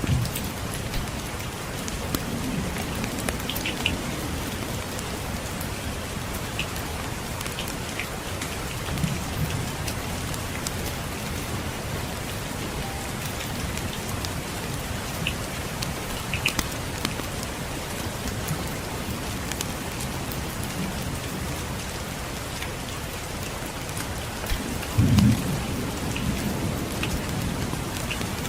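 Steady rainfall with scattered small crackles from a wood fire. About 25 seconds in comes a brief low rumble of thunder, the loudest sound.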